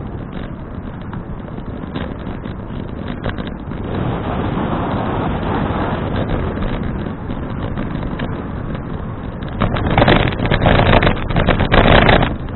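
Wind rushing over a helmet- or bike-mounted action camera's microphone while cycling, a rough unsteady noise that swells about four seconds in and surges much louder in gusts near the end.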